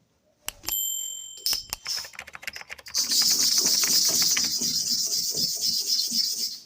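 Clipper blade rubbed back and forth on an oiled sharpening stone: a steady scraping hiss from about three seconds in. Before it come a few clicks and a short ringing tone as the blade is handled and set on the stone.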